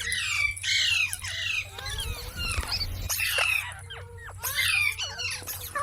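Indian ringneck parrot squawking: a series of harsh, downward-sweeping screeches, repeated every second or so.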